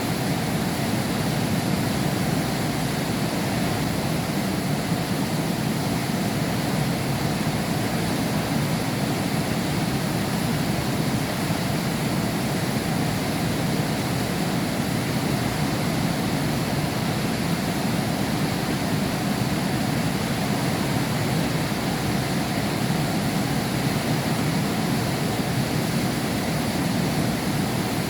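Heavy rain falling steadily, heard from behind window glass, a constant even rush with a low, dull weight.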